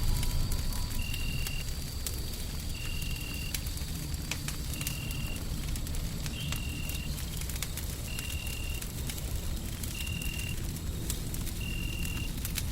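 Wood fire crackling with scattered sharp pops over a steady low rumbling noise. A short high steady tone repeats about every one and a half to two seconds.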